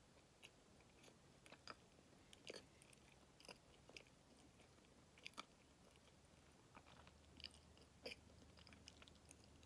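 Faint close-up chewing of a soft Kamome no Tamago sweet: irregular moist mouth clicks and smacks, a few of them louder.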